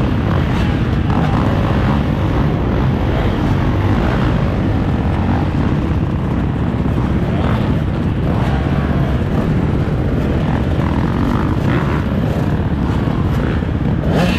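Motocross dirt bike engine running steadily, its pitch rising and falling a little with the throttle, over a heavy low rumble.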